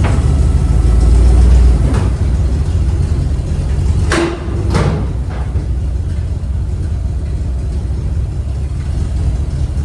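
A vehicle engine running steadily at low speed, a little louder in the first two seconds, with two sharp metal clanks about four and five seconds in.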